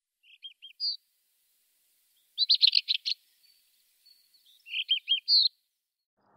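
A small songbird singing three short phrases of quick, high notes, about two seconds apart.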